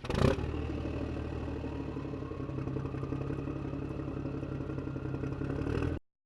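Diesel truck engine running steadily, ending abruptly about six seconds in.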